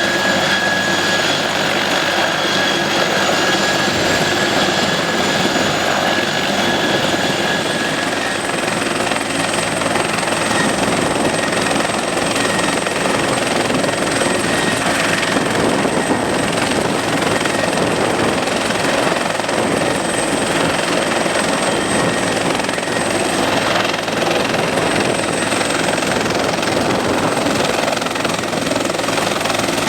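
Helicopter running steadily and loudly, its turbine and rotor noise constant, with a thin high whine held over it.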